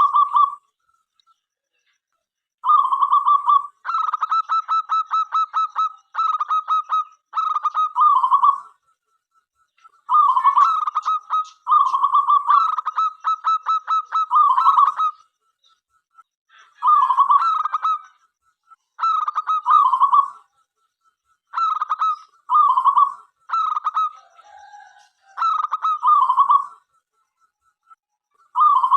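Zebra dove (local perkutut) cooing in repeated phrases with short pauses between them. Some phrases break into quick stuttering runs of notes.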